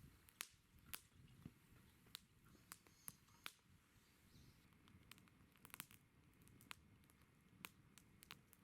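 Wood campfire crackling, with irregular sharp pops and snaps several times a second over a faint low hiss.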